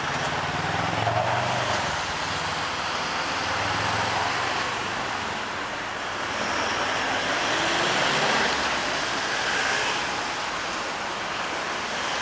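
Hankyu 1300 series eight-car electric train passing at a level crossing: a steady rumble of wheels running on the rails.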